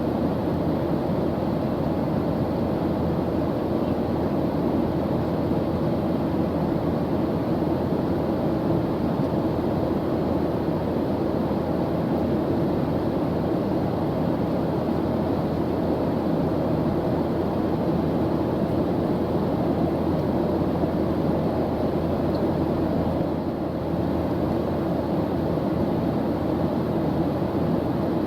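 Airplane engines droning steadily in flight: an even rushing noise, strongest in the low and middle range, that does not change.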